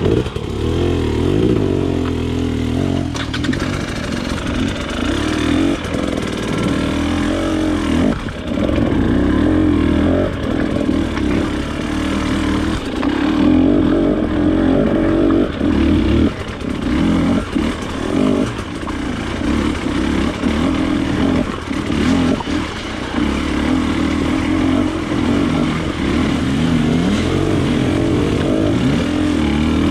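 KTM TPI two-stroke enduro motorcycle engine running as it is ridden on a rough trail, its revs rising and falling again and again with the throttle.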